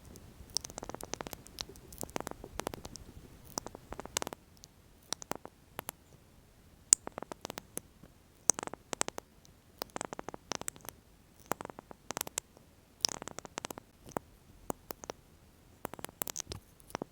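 Lip oil applicator being worked close to the microphone, making irregular clusters of small sharp clicks and sticky taps.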